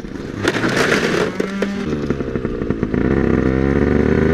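Motorcycle engine running, its pitch climbing as it accelerates in the second half, with a short burst of rough noise about half a second in.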